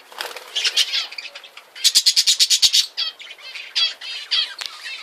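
Small ornamental cage birds chirping and squawking in quick, overlapping calls. About two seconds in there is a fast run of roughly ten sharp notes, the loudest part.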